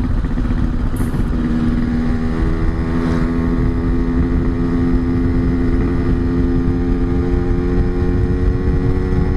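Yamaha RX-King's 135 cc two-stroke single-cylinder engine running steadily while the bike is ridden. Its note shifts slightly about a second in and again about two seconds in, then holds.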